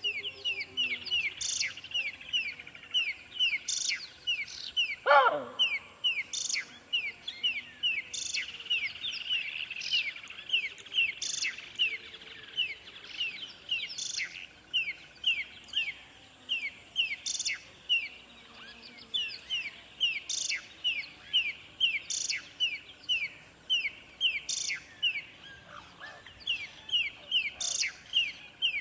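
Birds chirping: a quick, steady run of short, downward-sweeping chirps, about three to four a second, with a sharper high note every second or two. A single lower call slides down in pitch about five seconds in.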